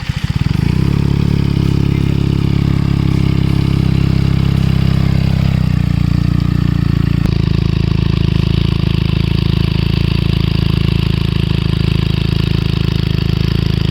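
Benelli TNT 300's 300 cc parallel-twin engine, breathing through an aftermarket IXIL X60 exhaust, firing up and settling into a steady idle with no revs, the note changing slightly about six to seven seconds in.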